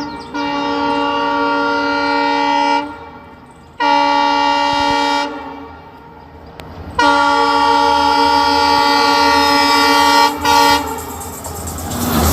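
Train horn sounding four steady-pitched blasts: a long one, a shorter one, another long one and a brief toot, followed near the end by the low rumble of the train.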